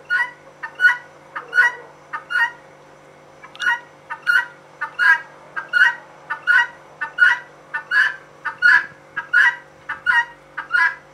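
Female guinea fowl calling: a loud, harsh two-note call, the hen's "buck-wheat" cry, repeated over and over about once a second, with a brief pause about three seconds in.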